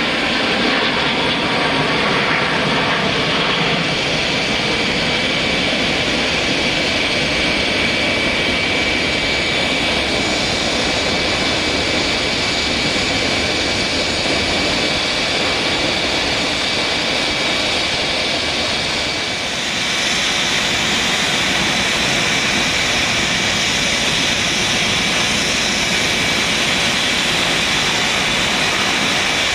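Boeing 737-200's Pratt & Whitney JT8D turbofan engines running, a steady loud jet noise with a high-pitched whine. About twenty seconds in the sound dips briefly, then comes back with more hiss.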